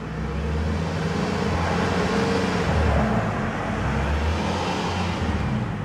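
Hybrid car's 16-valve dual-overhead-cam four-cylinder petrol engine running, heard through the open driver's door and pushed to rev in place. The engine note swells a little to about halfway through and then eases back; it is not a traditional revving engine like a regular gas car.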